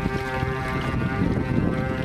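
Battery-powered electric motor of a radio-controlled scale model motor boat running at a steady speed, a whine of unchanging pitch, with wind rumbling on the microphone.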